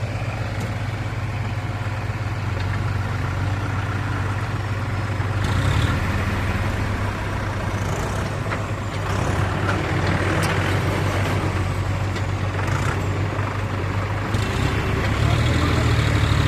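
John Deere 5105 tractor's three-cylinder diesel engine running steadily under load, hauling a fully loaded trolley; a continuous low engine drone that steps up a little about a third of the way in and again near the end.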